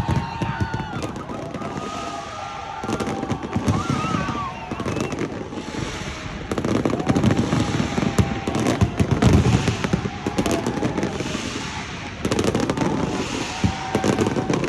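Fireworks going off in dense volleys of sharp bangs and crackles, growing louder in waves, with a crowd's voices underneath.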